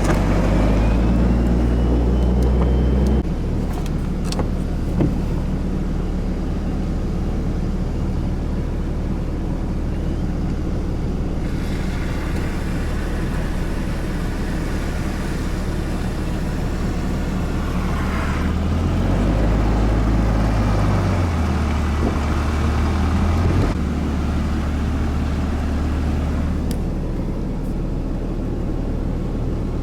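A car driving, heard from inside the cabin: a steady engine hum and road noise. The low hum steps down about three seconds in and changes pitch a few times later on as the car's speed changes.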